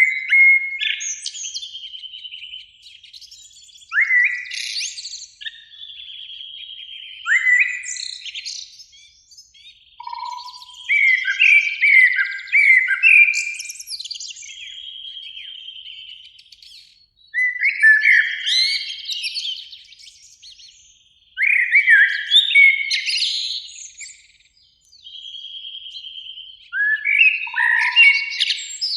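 Eurasian blackbird singing, a series of warbled phrases a few seconds apart with short pauses between them.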